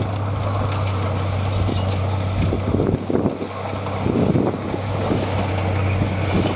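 Heavy diesel earthmoving machinery running steadily, a constant low engine hum under rough mechanical noise and occasional knocks. The hum cuts off suddenly at the end.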